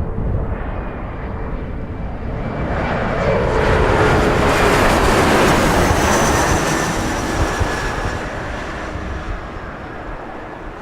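Bombardier CRJ700 regional jet's twin turbofan engines swelling to a peak about five seconds in and then fading as the jet goes past, with a whine that falls slightly in pitch. Strong wind rumbles on the microphone underneath.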